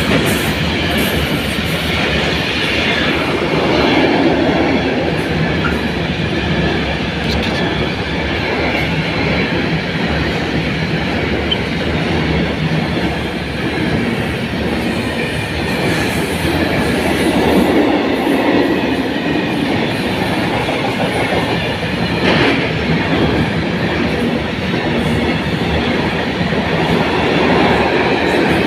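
Freight train of tank wagons passing close by at speed: a loud, steady rumble and rattle of wagon wheels on the track.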